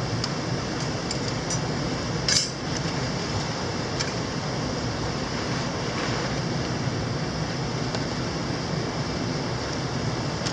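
Steady rushing of a mountain stream, with a few short clicks and clinks over it; the loudest comes about two and a half seconds in.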